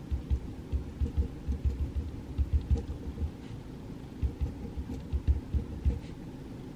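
Pencil writing on paper on a desk: irregular soft low knocks carried through the desktop, a few per second, with faint short scratchy strokes.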